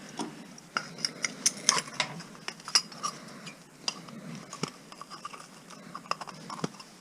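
Irregular small metal clicks and clinks as a metal outdoor light fixture is taken apart by hand, its parts knocking together while the wiring is pulled out.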